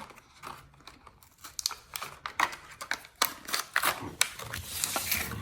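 Plastic blister packaging and cardboard card of a Matchbox die-cast toy car crinkling and crackling as it is pried open by hand, with irregular clicks and crinkles that get busier after about two seconds.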